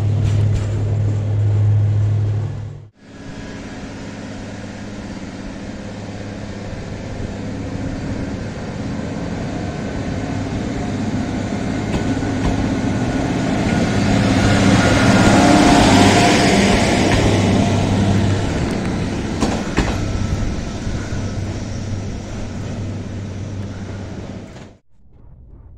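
Diesel railcar engine running with a steady low hum. After a sudden break, a red diesel multiple unit pulls away along the platform, its engine and wheel noise building to a peak about two-thirds through, then fading as it moves off down the line.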